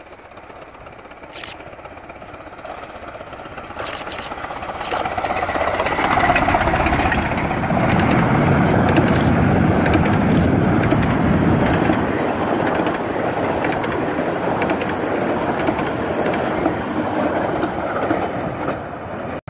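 A 15-inch gauge miniature steam-hauled passenger train approaching and running past, its coaches rumbling on the track. It grows loudest as the coaches pass close by, then slowly fades as the train draws away.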